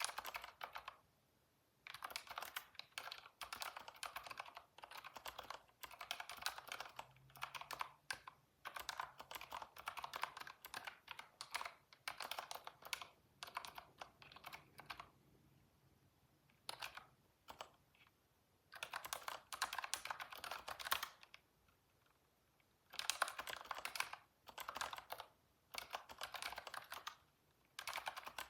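Typing on a computer keyboard: quick runs of key clicks broken by short pauses, the longest near the middle and about two-thirds of the way through.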